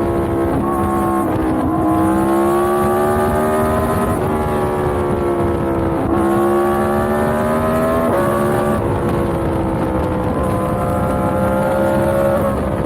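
Yamaha MT-10's crossplane inline-four engine under way, its pitch climbing slowly and then dropping suddenly at each of several gear changes, with wind noise on the microphone.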